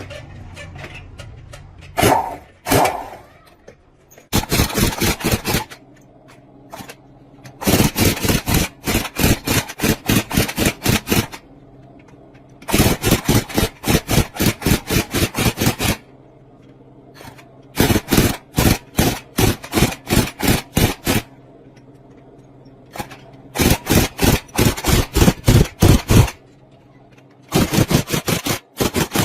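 Runs of rapid, evenly spaced knocks, several a second, each run lasting one to four seconds with short pauses between.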